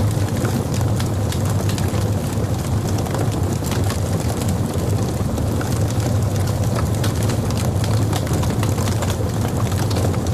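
Wood logs burning in a fireplace: a steady low rumble of the fire, with frequent small crackles and pops scattered throughout.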